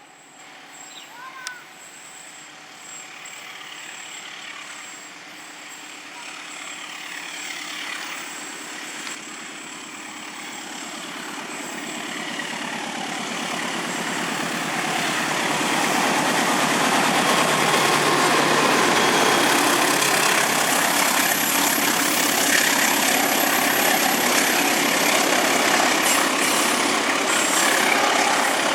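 Train approaching along the track, its rumble and wheel noise growing steadily louder over about fifteen seconds, then holding loud and steady as it passes close by.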